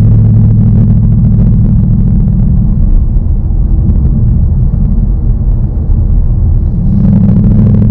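2019 Ford Mustang Bullitt's 5.0-litre V8 engine and exhaust running steadily as the car is driven. The engine note eases about three seconds in and picks up again near the end.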